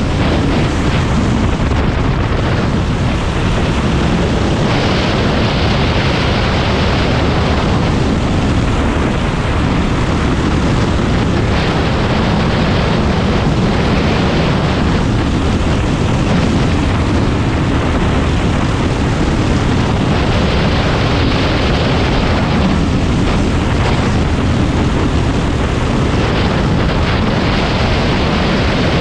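Predator 390 single-cylinder four-stroke racing kart engine running hard under racing load, a loud, steady, dense engine noise with no let-up.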